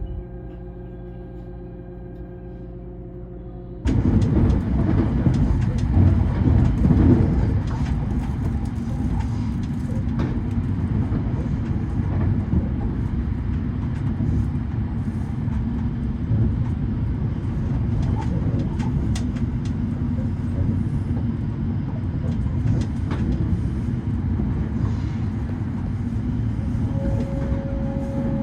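A steady ringing tone with several held pitches, then an abrupt switch about four seconds in to a train's running noise: a loud, steady rumble. A steady tone comes in near the end.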